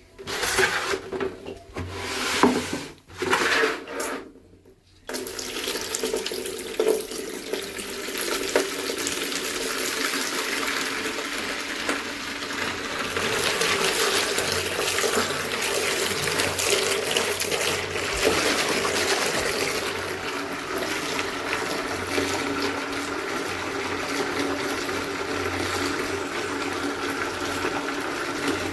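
Water running and splashing: a few short gushes with breaks in the first five seconds, then a steady, continuous flow.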